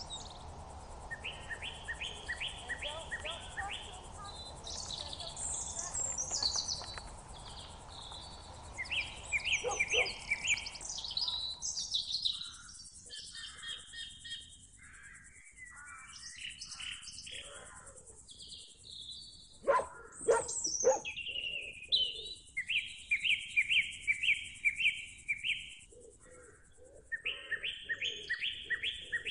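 Songbirds singing and chirping: several runs of quick, evenly spaced repeated notes, with higher chirps between them and a louder call about twenty seconds in.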